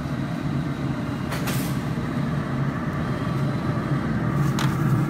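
A steady, low engine rumble like an idling vehicle, with two brief sharp clicks, one about a second and a half in and one near the end.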